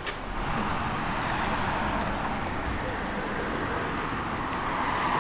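Steady road traffic noise, an even hiss of passing vehicles.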